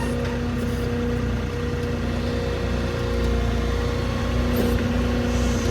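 Boom truck's engine running steadily with a constant hum while it powers the truck-mounted crane setting a load down.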